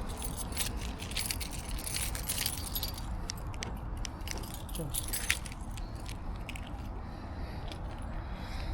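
Keys jangling in a run of quick, light clinks, thickest in the first five seconds and thinning out after, over a steady low rumble.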